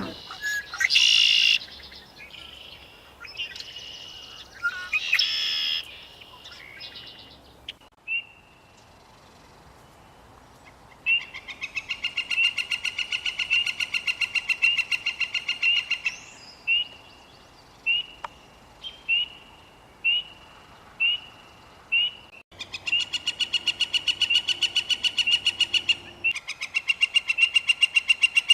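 Northern flicker calling: a few varied calls, then long runs of rapid, evenly repeated notes broken by a string of single notes.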